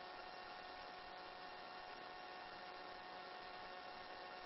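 Faint steady electrical hum and hiss on the helicopter's headset intercom line, with several thin steady tones and no voices.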